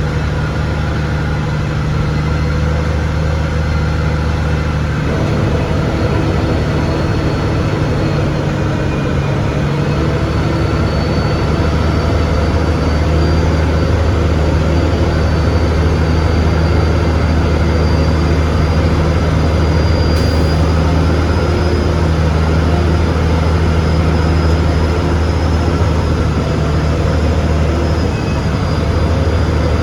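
Heavy diesel engine running steadily, its note shifting slightly about five seconds in, with a faint high whine that rises slowly over the stretch.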